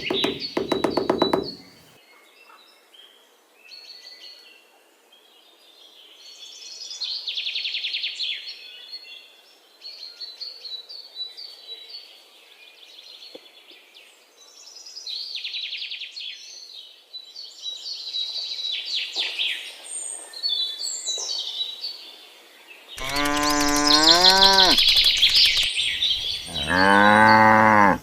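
Cows mooing twice near the end, each a long call that rises and falls in pitch, with birds chirping throughout in a farmyard ambience.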